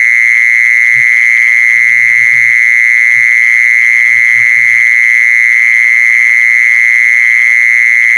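An insect (the 'jee-son', แมลงจีซอน) calling: a loud, unbroken high-pitched trill held steady on one pitch.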